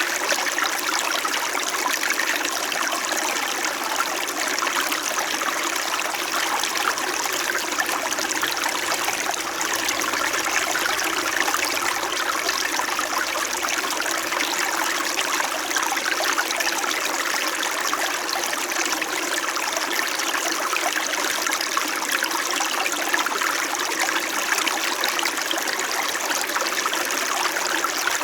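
A small mountain stream flowing steadily over rocks, a continuous babbling and trickling of water.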